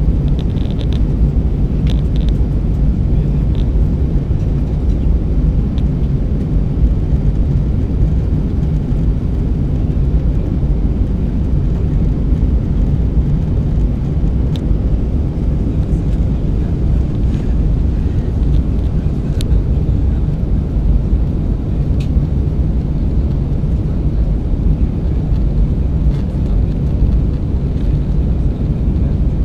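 Airbus A320 cabin noise during descent: a steady, even rumble of airflow and engines with a few faint clicks.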